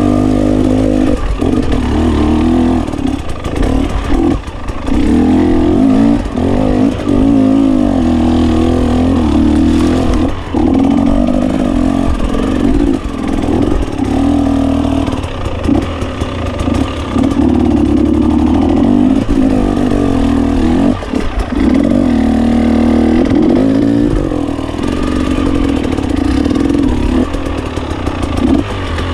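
GasGas 300 two-stroke enduro motorcycle being ridden, its engine revving up and down constantly as the throttle is worked, with short drops in between.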